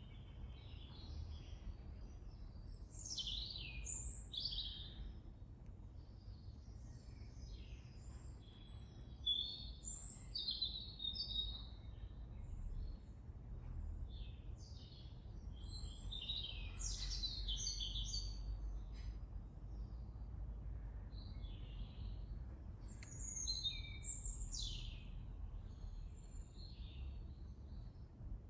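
Garden birds singing and chirping: many short high notes, some sliding down in pitch, coming in bursts throughout. A steady low rumble runs underneath.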